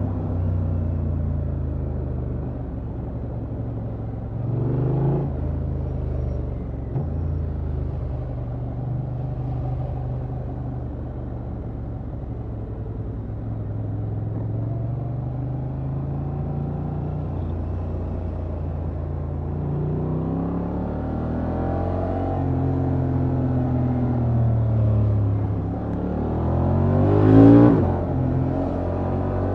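Honda XL750 Transalp's parallel-twin engine through its stock exhaust, heard from the rider's seat while riding, its pitch climbing and dropping several times as the throttle opens and closes through the gears. A brief loud swell comes near the end.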